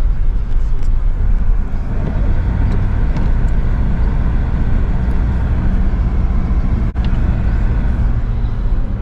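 Steady low road rumble and engine drone inside a moving car's cabin, driving on a snowy highway.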